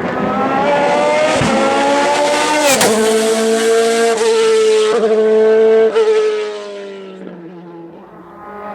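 Hill-climb race car engine accelerating hard with quick upshifts, its pitch climbing and dropping at each gear change. It gets loudest as the car passes, then fades as it drives on up the road.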